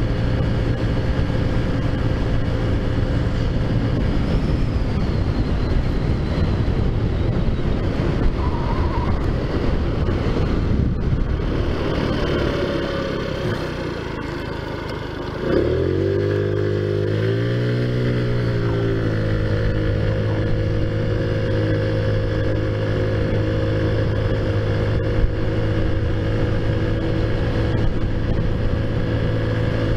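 Taotao Zummer 50cc four-stroke scooter engine, fitted with a big bore kit and aftermarket exhaust, running under way. It eases off about halfway through, then revs back up and settles into a steady drone.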